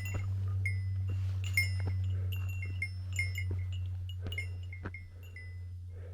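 A small bell, such as a hiker's bear bell, jingling with walking steps: bright, short ringing strikes at an irregular rhythm, a few each second, briefly pausing near the end. A steady low hum runs underneath.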